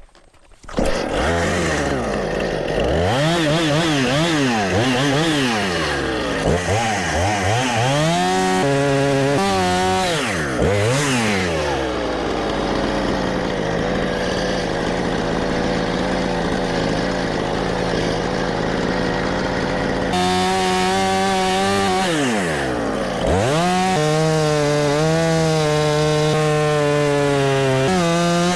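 Husqvarna two-stroke chainsaw starting up about a second in and being revved up and down several times, then held running at mostly steady speed, with another rev up and down a little past two-thirds through, as it cuts into a black oak log.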